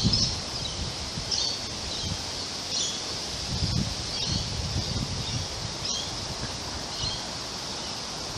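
Wind blowing through trees and rustling the leaves, with gusts rumbling on the microphone, while a bird gives short calls about once a second.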